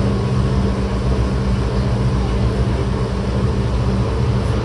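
Tokyo Metro 08 series electric train running at a steady speed, heard from inside the passenger car: an even rumble of wheels on rail with a few steady low tones underneath, neither rising nor falling.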